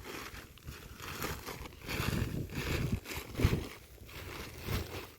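Handling noise: irregular rustling and crunching with a low rumble and a sharp knock about three and a half seconds in.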